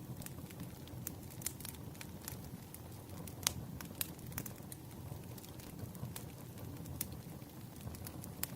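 Campfire burning: a steady low rumble of flames with scattered sharp crackles and pops of burning wood, the loudest pop about three and a half seconds in.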